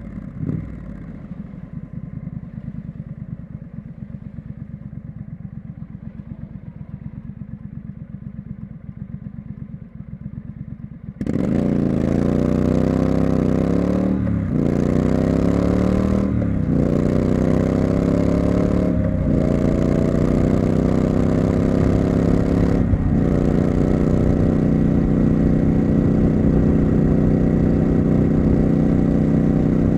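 Triumph Street Scrambler's 900 cc parallel-twin engine idling with a low, even pulse, then about eleven seconds in it gets much louder as the bike pulls away, revs climbing and dropping at four upshifts before settling to a steady cruise.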